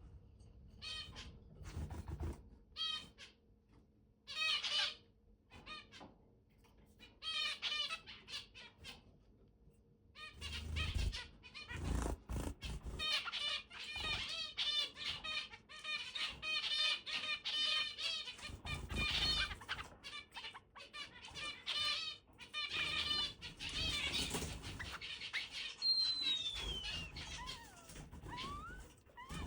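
Long-tailed finch singing: short repeated song phrases, spaced out at first, then near-continuous from about ten seconds in, with a few low thumps underneath.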